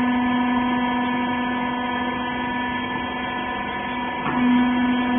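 Hydraulic power unit of a horizontal rag baler running steadily with a strong, even hum. About four seconds in there is a brief change with a faint click, after which it runs a little louder.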